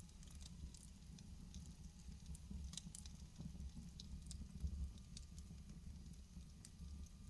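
Wood fire burning in a fireplace: a low steady rumble of the flames with irregular small crackles and pops from the burning logs, one louder pop a little before five seconds in.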